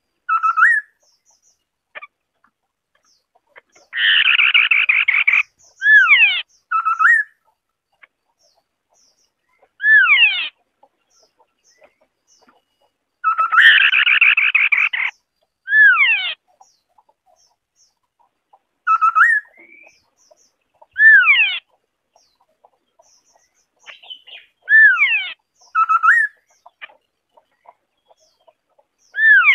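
White-browed scimitar-babbler singing: short phrases of clear, sliding whistled notes repeating every few seconds, twice joined by a fast rattling burst lasting over a second.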